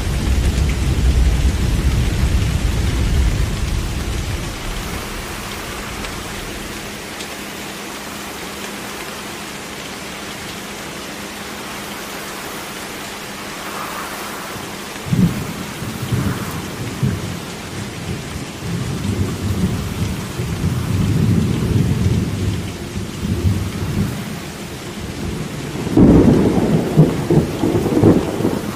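Steady rain with rolling thunder. A deep rumble dies away over the first few seconds, a sharp thunderclap comes about halfway through and is followed by rolling rumbles, and a loud peal of thunder breaks near the end.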